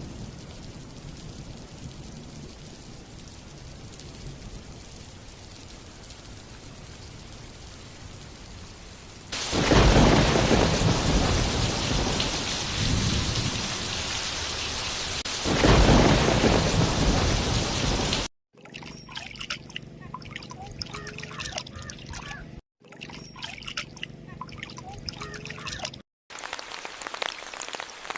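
Rain falling steadily, then heavier rain with two loud rolls of thunder, about ten and sixteen seconds in. After a sudden cut, the rain becomes close individual drops striking a surface, and the track drops out briefly twice.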